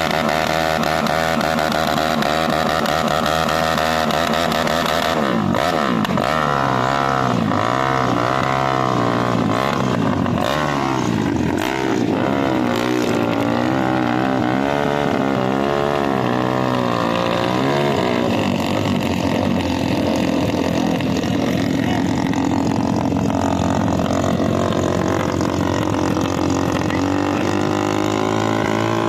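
Drag-racing motorcycle engines running loud and steady, then revving, the pitch swinging up and down over and over from about five seconds in and rising again near the end.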